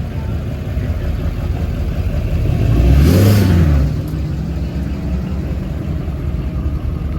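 A car engine revs up and back down, loudest about three seconds in, over a steady low engine rumble.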